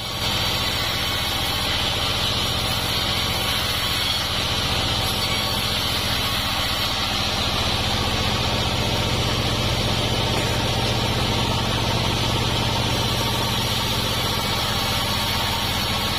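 Homemade sawmill machinery running steadily: a constant low drone with a hiss above it.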